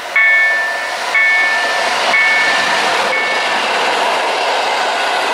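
Passenger train hauled by an EU160 electric locomotive passing at speed: a growing rush of wheels on rail as the coaches go by. A bell rings about once a second through the first three seconds, each strike fading out, before the rolling noise covers it.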